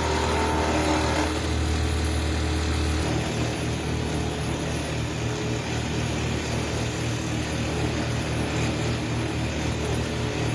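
Wood lathe running steadily while wax is buffed onto the spinning wooden flute blank with a hand-held cloth. The motor's hum changes slightly about three seconds in.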